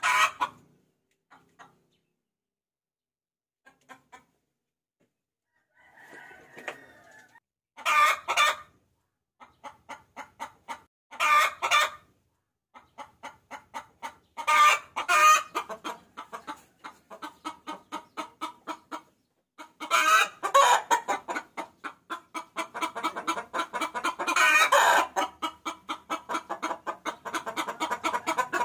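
Hen cackling: runs of quick clucks, about four or five a second, broken by louder drawn-out calls, thickening into a near-continuous cackle in the second half. It is a hen calling to a rooster.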